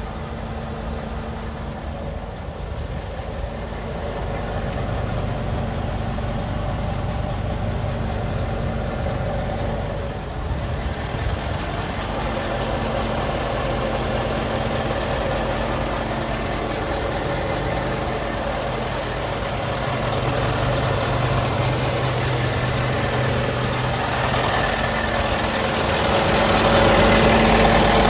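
Scania G440 truck's 13-litre six-cylinder diesel running steadily near idle, getting louder a few seconds in and again near the end.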